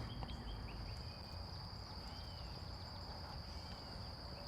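Outdoor ambience of insects trilling steadily at a high pitch, with a few faint, short bird chirps.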